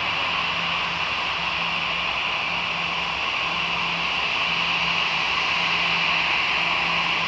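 Steady hiss and whine of jet engines, most likely the Airbus A340-211's CFM56 engines, with a low hum that comes and goes about once a second.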